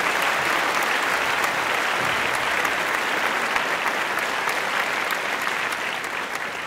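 Spectators applauding: dense, steady clapping that begins to fade near the end.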